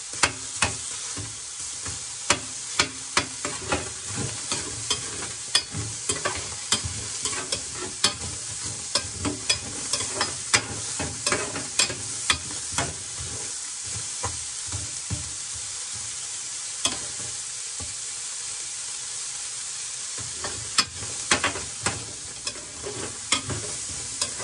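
Sliced red onion and garlic sizzling steadily as they dry-fry without oil in a stainless steel Saladmaster electric skillet. A metal spoon stirs and scrapes the pan, clicking against it about twice a second. The stirring pauses for several seconds past the middle, then starts again.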